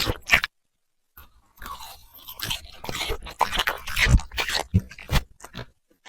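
A puppy crunching and chewing food in quick, uneven bites, close up. The sound drops out completely for about half a second near the start, then the crunching picks up again and carries on.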